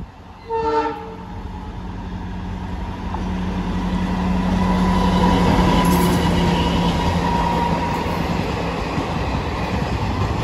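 A DEMU diesel-electric multiple unit gives one short horn blast about half a second in, then passes close by, its diesel power car running with a steady engine note and its wheels running on the rails. The sound swells to its loudest as the power car goes past, around the middle.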